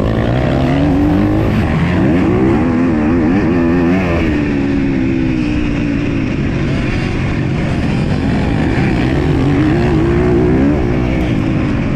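Motocross dirt bike engine at race speed, revving up and down repeatedly as the rider works the throttle.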